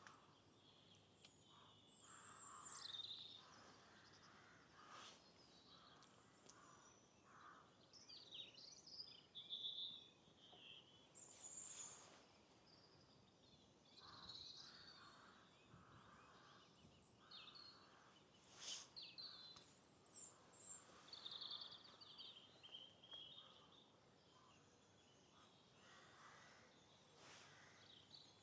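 Faint birdsong: several small birds calling and chirping at intervals over a quiet background hiss.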